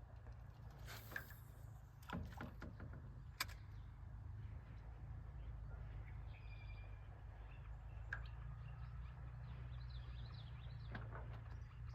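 Quiet lake ambience with a steady low rumble, a few sharp clicks and knocks in the first few seconds, and faint bird calls in the middle and near the end.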